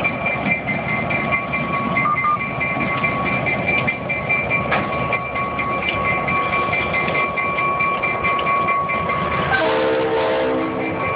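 Freight train rolling by with a steady rumble and a steady high-pitched tone over it. About nine and a half seconds in, a cluster of tones steps downward in pitch for about a second.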